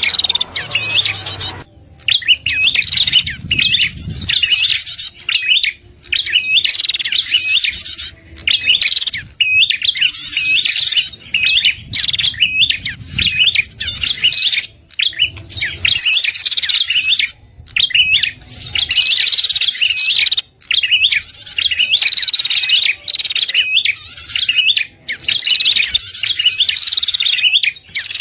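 Prinia (prenjak) lure song: phrases of fast, high chirps about a second long, repeated over and over with short breaks between them.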